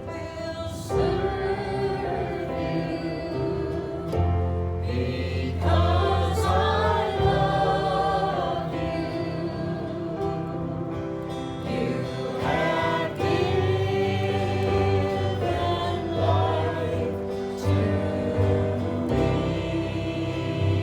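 Gospel hymn sung by a group of voices over a steady instrumental accompaniment of held chords.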